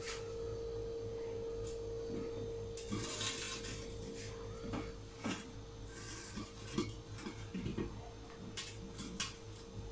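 Light clinks and knocks of kitchen dishes and utensils being handled, with a couple of soft rustles, over a steady faint hum.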